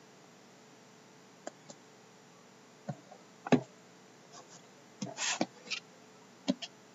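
Hands handling a sealed hobby-box tin of trading cards: scattered light clicks and taps, a sharper knock about halfway through, and a short scratchy scrape about five seconds in.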